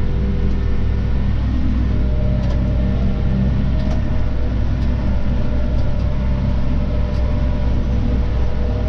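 Claas Arion 530 tractor's engine running steadily under the load of mowing, heard from the driver's seat, with a few faint ticks.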